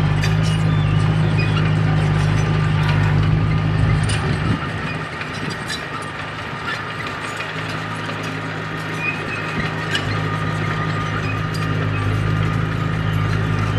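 Komatsu D31P crawler bulldozer's diesel engine running with its steel tracks clanking. The engine eases off about four and a half seconds in, then builds back up.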